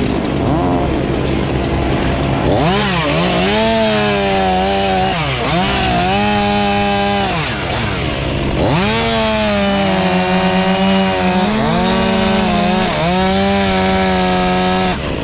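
Chainsaw running at high revs and cutting wood, its engine note dipping and recovering several times as the chain loads in the cut.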